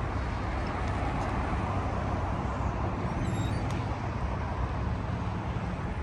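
Steady road and engine noise of a vehicle on the move, an even low drone with no sudden sounds.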